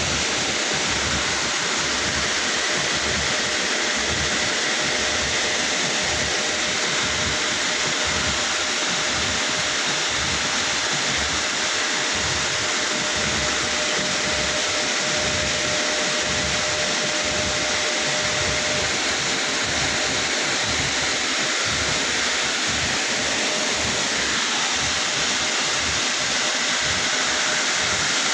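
Steady, loud whooshing noise of effluent-treatment machinery running, with a faint steady whine that fades out about two-thirds of the way through.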